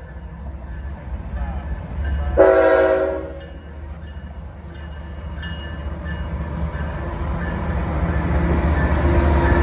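Diesel freight locomotive's air horn sounding one short blast about two seconds in, over the low rumble of the approaching train, which grows steadily louder toward the end.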